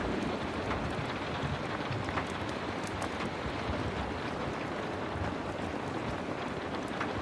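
Heavy rain falling steadily: a dense, even hiss with a low rumble underneath, dotted with scattered sharp little ticks.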